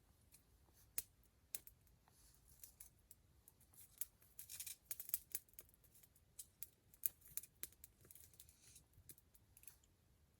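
Wood campfire crackling: irregular sharp pops and snaps, with a denser run of crackles around the middle.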